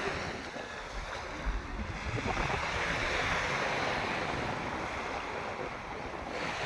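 Sea surf washing onto a beach, with wind on the microphone. The wash swells from about two seconds in and dips briefly near the end.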